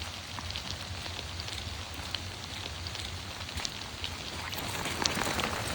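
Steady rain falling, with many scattered drops ticking sharply over a steady hiss and a low rumble underneath.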